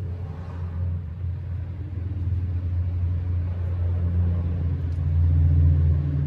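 A vehicle engine running with a steady low rumble, getting louder about five seconds in.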